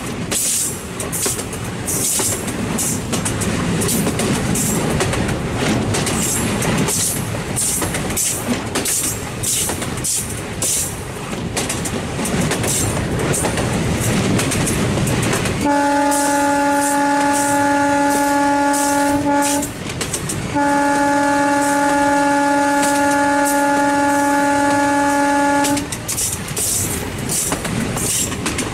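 Train running on the rails with a steady rumble and a rhythmic clickety-clack of wheels over rail joints; about halfway through, the locomotive's horn sounds two long steady blasts with a short break between them, then the rolling sound carries on.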